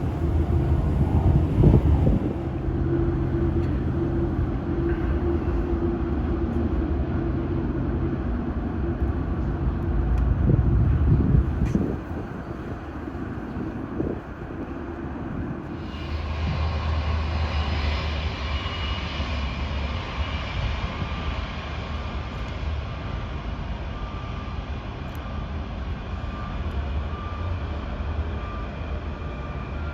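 Jet airliner engines running, a steady rumble with held whining tones, with gusts of wind on the microphone in the first half. About sixteen seconds in the sound changes abruptly to a steadier jet engine whine with higher tones.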